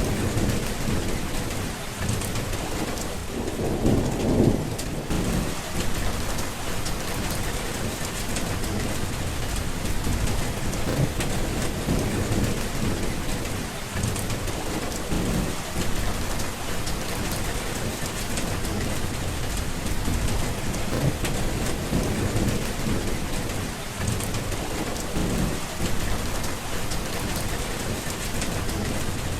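Steady heavy rain with low rumbles of thunder rolling through it, the strongest roll about four seconds in.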